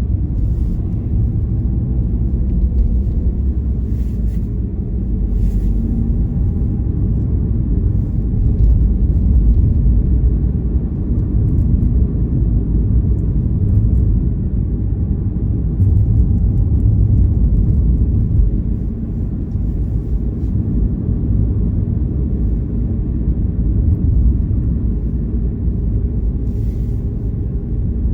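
Steady low rumble of a car's engine and tyres on the road, heard from inside the moving car, with a couple of faint clicks about four and five seconds in.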